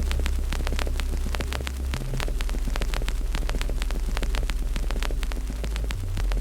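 Wood fire crackling, with many sharp pops and snaps, several a second, over a steady deep rumble.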